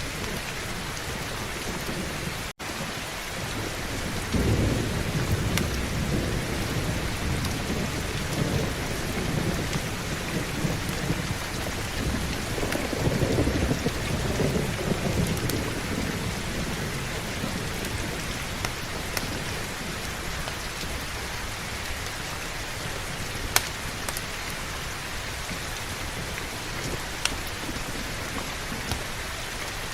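Heavy rain falling steadily, with thunder rumbling low twice, about four seconds in and again around thirteen seconds in. The sound cuts out for an instant about two and a half seconds in, and a couple of sharp clicks come near the end.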